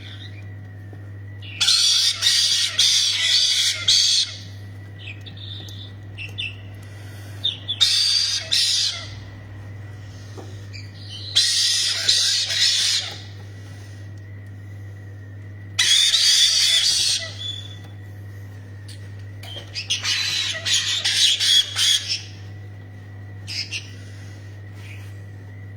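Parrots screeching in five loud bursts, each lasting one to two and a half seconds, with quieter single calls between them, over a steady low hum.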